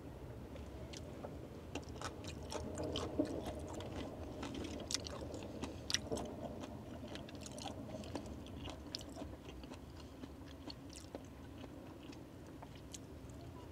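Close-up chewing of bone-in thin-sliced raw gizzard shad (sekkoshi), with many small wet clicks and crunches that thin out in the last few seconds. A faint steady hum runs underneath.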